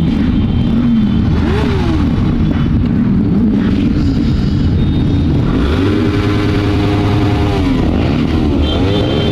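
Motorcycle engines running at road speed with wind rush over the microphone, engine pitch rising and falling with the throttle. About six seconds in, a louder engine joins, revving up and down.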